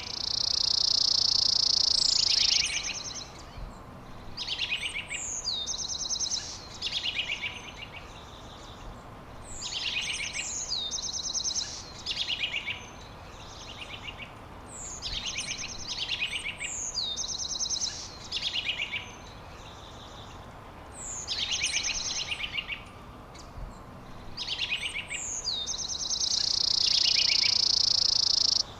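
A songbird singing the same short phrase over and over, about once every one and a half to two seconds: a quick downward sweep followed by a run of fast, high notes. A long, loud, even trill comes at the start and again near the end, and the second trill cuts off suddenly.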